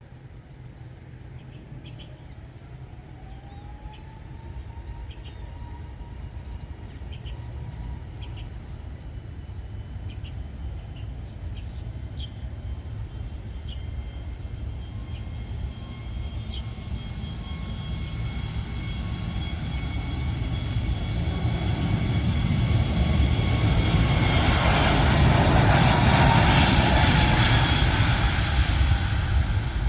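Jet airliner's engines approaching and passing close by. The rumble and a rising turbine whine grow steadily louder to a peak about 25 seconds in, then begin to fade.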